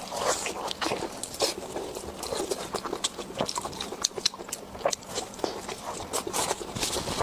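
Close-miked eating: chewing and biting into food, with a dense run of irregular crisp crunches and wet mouth clicks.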